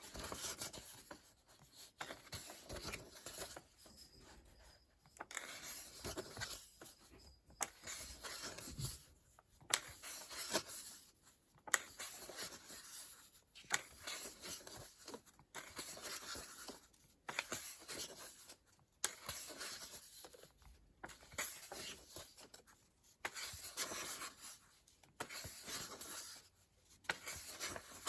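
Paper pages of a paperback coloring book being turned one after another, a soft rustle and slide every second or two.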